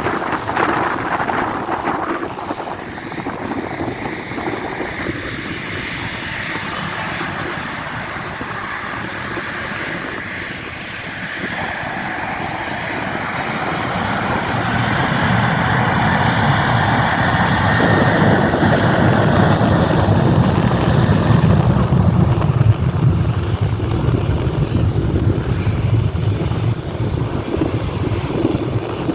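Boeing 737-800's CFM56 turbofan jet engines running, growing louder over the second half with a deep low rumble building, loudest about three-quarters of the way through.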